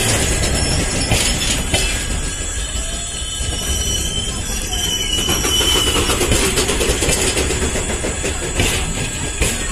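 Double-decker passenger coaches rolling past at close range: a steady rumble of wheels on rail, with a few sharp clicks over rail joints and a thin high squeal for a couple of seconds a few seconds in.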